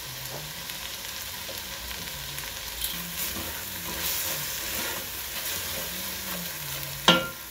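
Tomato sauce sizzling and frying in a coated pot, a silicone spatula stirring and scraping through it from about three seconds in. A single sharp knock comes near the end.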